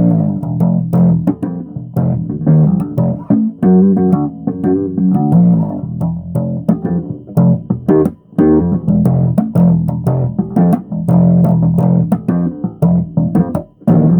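Electric bass guitar played solo: a busy run of plucked notes in the low register, with short breaks about eight seconds in and near the end.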